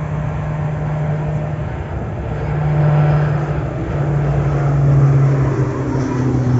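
Motorboat engine running steadily under way, its pitch wavering slightly and dropping near the end as the throttle eases.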